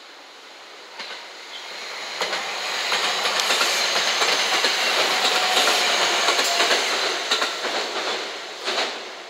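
JR West 227 series four-car electric train passing close by, its wheels clicking over the rail joints. It builds over the first couple of seconds, is loudest through the middle, and fades near the end after a last sharp knock as the final wheels cross a joint.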